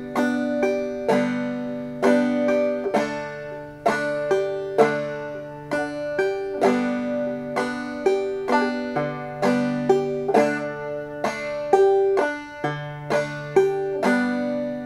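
Five-string banjo played clawhammer (frailing) style in open G tuning: a steady 'bum-diddy' rhythm of struck melody notes and brushed strums, moving between a G chord and a D chord.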